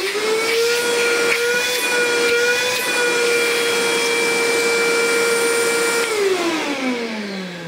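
Kärcher WD 3 wet/dry vacuum cleaner motor switched on, its pitch rising as it spins up, then running with a steady whine and airflow hiss; about six seconds in it is switched off and the pitch falls away as the motor winds down. It runs smoothly after its clogged tank was cleared, the abnormal noise and vibration gone.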